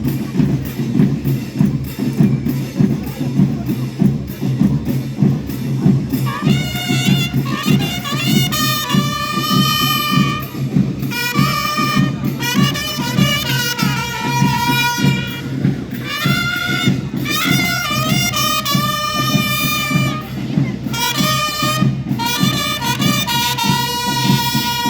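School marching band playing: a steady drum cadence, with a brass melody coming in about six seconds in and carrying on in repeated phrases over the drums.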